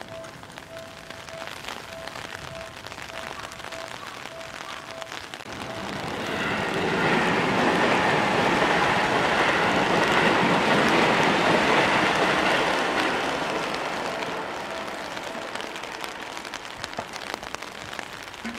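An electric train passing on nearby tracks: a rolling, rushing noise that swells, holds for several seconds, then fades away. A short electronic beep repeats about twice a second before the train comes and again as it dies away.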